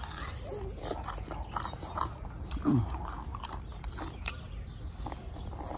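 A person biting into and chewing a ripe mango with its skin on: irregular wet smacks and crunches of mouth sounds. About two and a half seconds in comes a short falling tone, the loudest moment.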